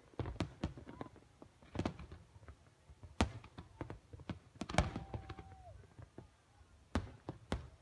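Fireworks bursting, a string of irregular sharp bangs and pops, with a brief held whistle-like tone about five seconds in.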